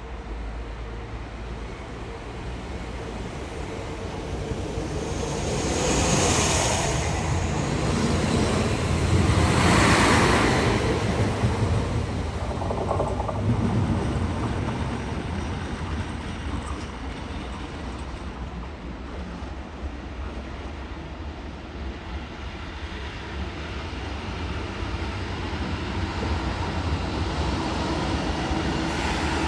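Train running through a station: a steady low rumble that swells twice, about six and ten seconds in, with a brief high thin squeal at the first swell, then settles back.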